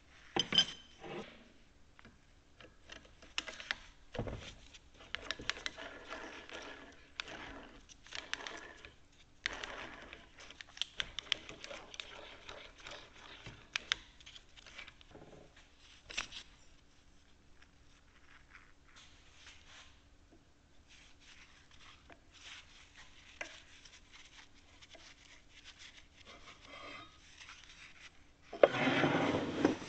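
Hand disassembly of a cast-iron arbor press: steel parts and tools clinking, knocking and scraping against a metal bench top and the press body, in irregular bursts. Near the end a louder stretch of metal-on-metal scraping.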